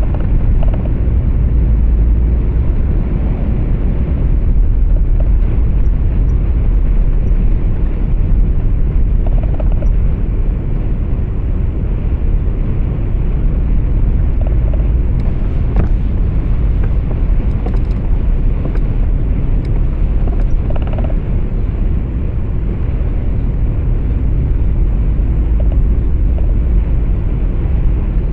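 Steady low rumble of a truck's engine and road noise heard inside the cab while driving, with a few faint clicks about halfway through.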